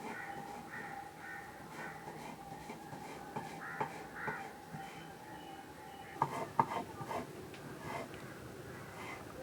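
Crows cawing in a run of short repeated calls. A few sharp knocks come about six to seven seconds in and are the loudest sounds.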